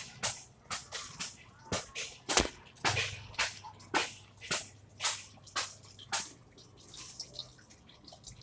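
Water dripping in a quick, irregular series of sharp drops, about two a second, growing fainter after about six seconds.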